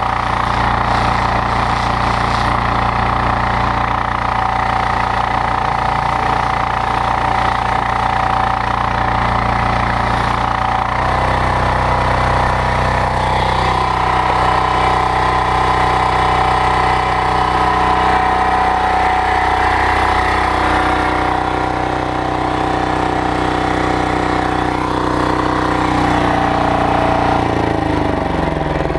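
Loncin single-cylinder diesel engine running a belt-driven pressure washer pump, a steady engine note. About eleven seconds in the note shifts, and near the end the pitch drops.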